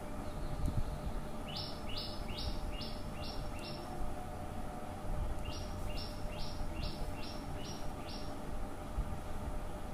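A bird calling: two runs of sharp, evenly spaced chirps, six and then seven, about two and a half a second, over low steady background noise.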